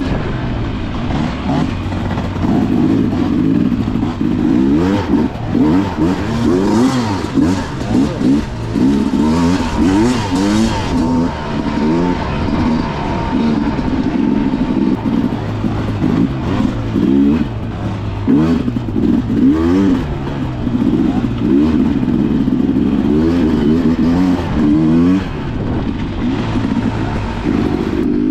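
Enduro dirt bike engine revving up and down over and over as the bike is ridden along a trail, with wind and trail noise over it.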